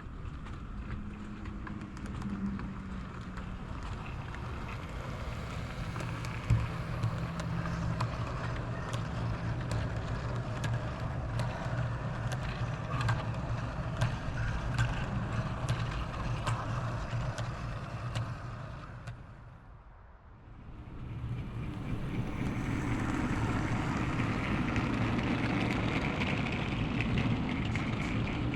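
OO gauge model train running on the layout: a steady motor hum with irregular clicks from the wheels over the rail joints. The sound fades briefly about two-thirds of the way through, then comes back louder.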